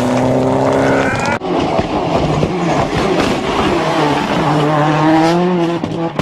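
Rally car engines at full throttle. About a second and a half in, the sound cuts to another car accelerating hard, its engine pitch rising and dropping through gear changes over a rough hiss of tyre noise.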